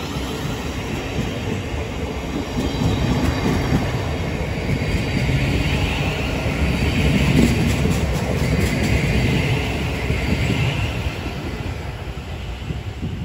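Thameslink Class 700 electric multiple unit running through the platform. Its rumble builds over the first few seconds and is loudest through the middle, with a few sharp clicks from the wheels on the rails, then it eases off near the end.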